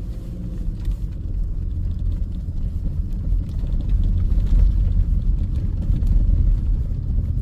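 Steady low rumble of a car driving on a snow-covered, rutted road, heard from inside the cabin.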